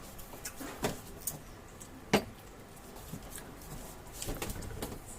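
Eating sounds: chewing and mouth smacks in short, scattered clicks, with one sharp loud click about two seconds in and a cluster of smacks near the end.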